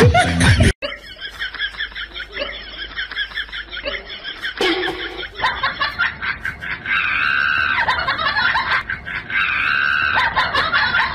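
People laughing hard: quick, choppy bursts of giggling at first, then long, high-pitched shrieking laughs that come in three stretches in the second half.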